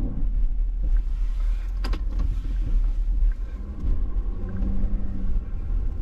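Plow truck's engine and drivetrain rumbling steadily, heard from inside the cab while driving. A single sharp click about two seconds in.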